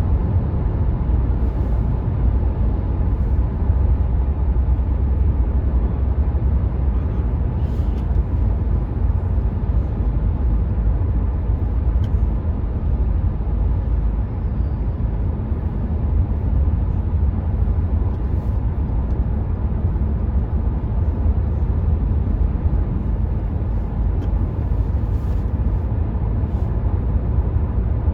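Steady motorway cruising noise inside the cabin of a 2019 Renault Mégane IV with the 1.5 dCi diesel: a deep, even tyre and road rumble with wind noise over it, no change in pitch or level.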